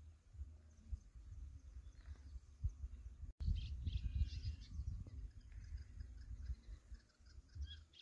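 Small bird chirping in short high notes in clumps, over a low, uneven rumble. The sound cuts out for an instant about a third of the way in, and the chirps come after that, strongest just after the cut and then fainter and repeated.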